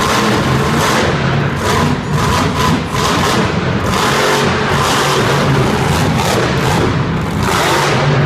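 Monster truck engine running loud and revving, with music playing over it.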